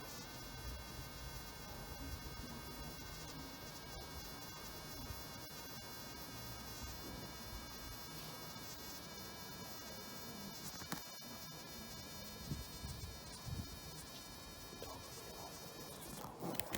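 Wasps buzzing: a steady drone of wing-beat tones, with a brief louder noise right at the end.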